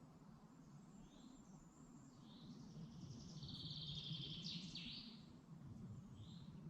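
Faint woodland birdsong: a short high call note repeated every second or so, and in the middle a faster trilling phrase ending in a few quick falling notes. A steady low rumble runs underneath.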